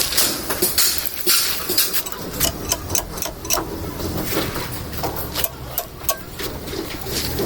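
Irregular metal clinks and knocks of hand tools at work on a truck in a workshop, some sharp and loud, over a steady low engine hum.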